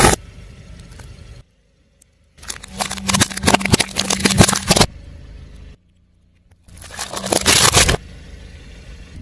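Car tyre rolling over and crushing crunchy objects: two bursts of dense crackling and snapping over the low hum of the car's engine, broken up by sudden cuts to silence.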